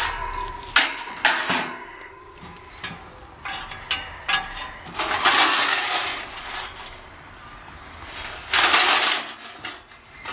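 Sheet-metal clinks and knocks, then two longer scraping stretches, from parts of an old air-conditioning condensing unit being handled as it is taken apart.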